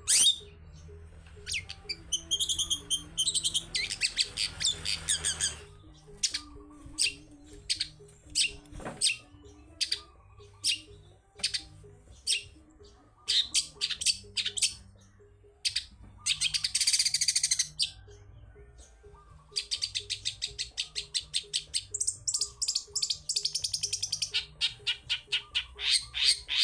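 Long-tailed shrike (cendet) singing a busy, varied song of sharp high chirps, fast trills and rapid strings of repeated notes. A harsh rasping call comes a little past halfway.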